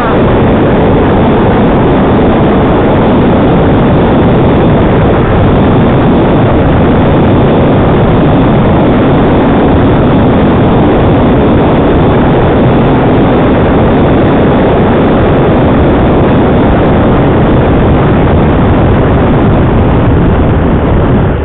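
Yamaha Niken being ridden at speed, heard through a helmet comms microphone: loud, steady wind rush with the engine's drone underneath.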